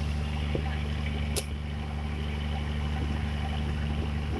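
Boat engine running steadily at a constant speed, with one sharp click about a second and a half in.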